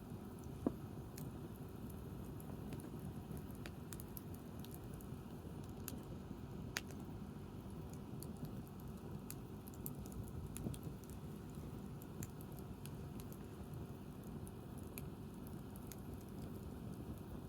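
Wood fire burning: scattered small crackles over a steady low rumble, with a sharp pop about a second in and another about a third of the way through.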